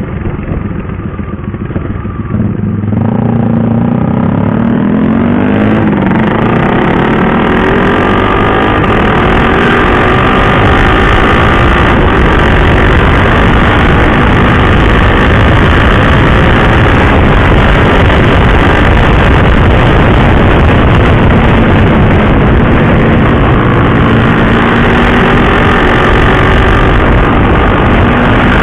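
Single-cylinder KTM RC 390 motorcycle engine accelerating about three seconds in, its pitch rising, then running steadily at speed under a dense, steady rushing noise.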